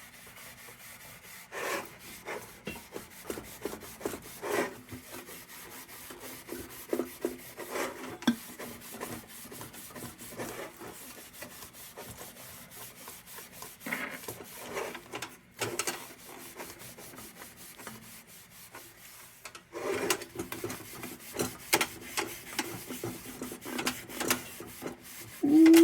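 Steel wool scrubbing the tin of an old Dietz Blizzard lantern: irregular back-and-forth rubbing strokes as rust and grime are polished off, busier in the last few seconds.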